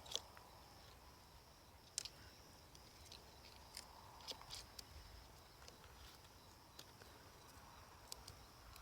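Mostly quiet, with scattered faint sharp clicks of a chainsaw chain's drive links being worked into the guide bar groove by hand, over a steady high insect drone.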